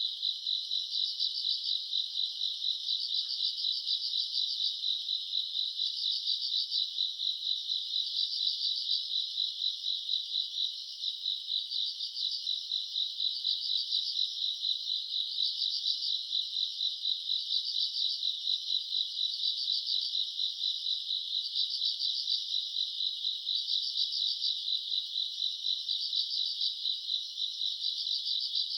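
A chorus of grass insects singing at night: a continuous high trill, with a louder pulsing chirp that repeats every second or so.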